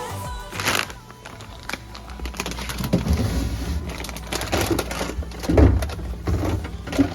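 Irregular handling noises: rustling and crackling with light knocks and thumps, as things are moved about and set down. The loudest thump comes a little over halfway through.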